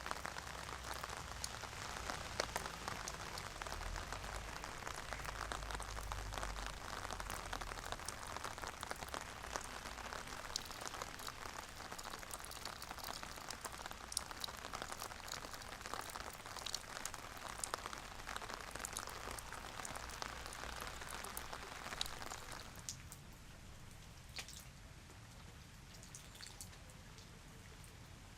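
Steady rain, with many separate drops pattering on a surface. About 23 seconds in it becomes quieter and thinner.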